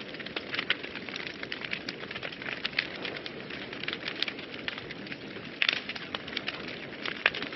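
Wood fire burning in a fireplace, a steady hiss with frequent irregular crackles and pops, a burst of louder pops a little past halfway through.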